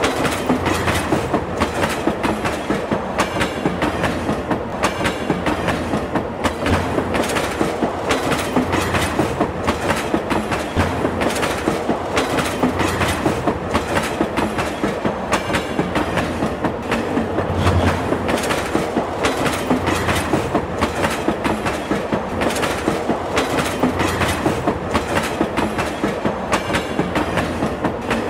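Train running along the track, its wheels clattering over rail joints in a steady rhythm of clicks over a low rumble.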